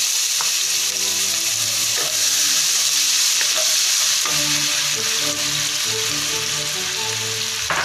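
Chopped onion sizzling steadily in hot oil in a wok as it is sautéed, stirred with a wooden spatula that scrapes and taps now and then.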